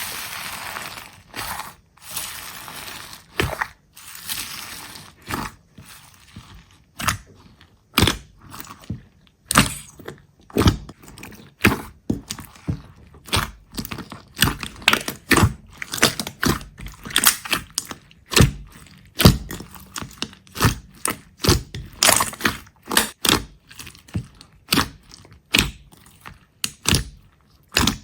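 A long series of sharp cracks and crunches, about one to two a second, after a few seconds of hissy rustling at the start.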